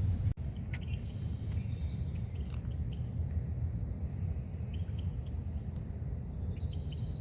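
Steady high-pitched buzzing of insects, over a low rumble, with a few short scattered bird chirps.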